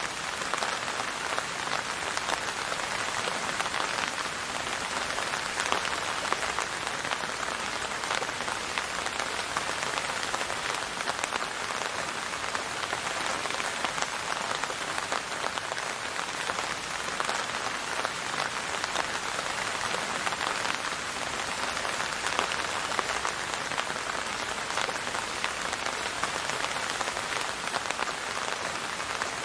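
Steady rain falling on a hard surface, a dense even hiss of many small drop ticks that neither builds nor fades.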